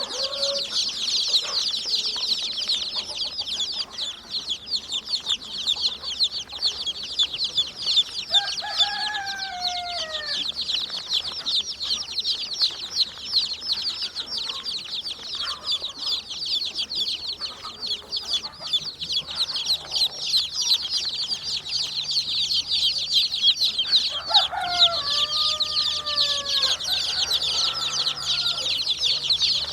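Chickens calling: a dense, unbroken chorus of rapid high peeping. A few lower calls falling in pitch come about eight seconds in and again around twenty-five seconds.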